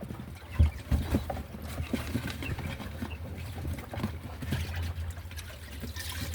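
Pet hen fussing with low clucks after laying an egg, amid scattered knocks and handling sounds.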